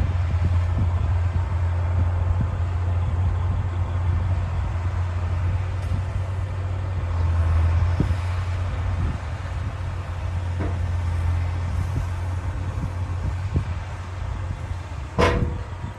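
D60 bulldozer's diesel engine running steadily with a deep drone, with a short sharp squeal near the end.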